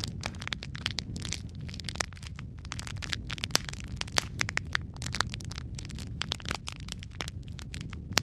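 Wood fire crackling: a steady low rumble of the burning fire with many irregular sharp pops and snaps, several a second.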